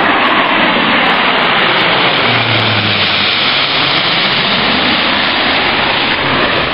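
Jet airliner's engines at takeoff power, a loud steady rush of engine noise.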